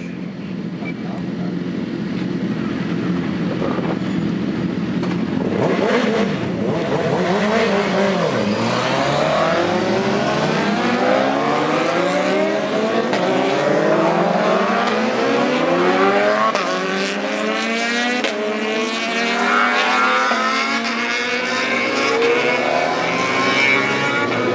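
Several 750cc racing motorcycle engines running together, first with a steady low hum, then from about six seconds in revving hard. Their overlapping notes climb, drop back and climb again as they accelerate up through the gears.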